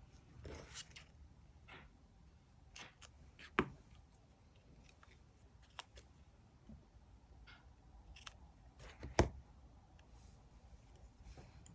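Diary-decorating stationery handling: soft paper rustles and scattered light taps and clicks, with two sharper clicks, one about three and a half seconds in and one about nine seconds in.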